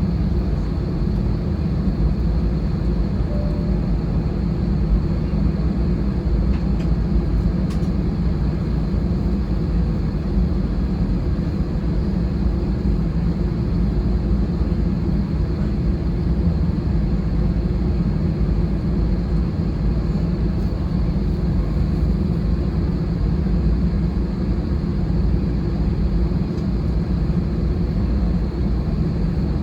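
Steady cabin noise inside an Airbus A320-216 airliner: a constant low hum and rush from its CFM56 engines and cabin air, with a faint high-pitched whine. It holds level throughout, with no spool-up.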